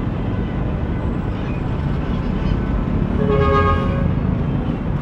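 Steady rumble of city street traffic, with one short vehicle horn toot, under a second long, about three seconds in.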